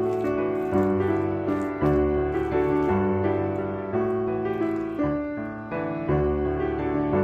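Background piano music, notes and chords struck about once a second.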